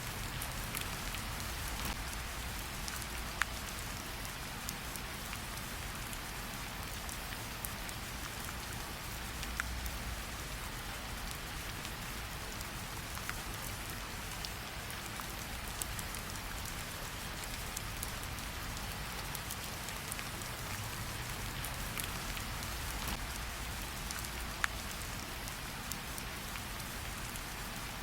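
Steady rain falling on a surface in an even hiss, with a low rumble underneath and a few isolated sharp crackles of a campfire.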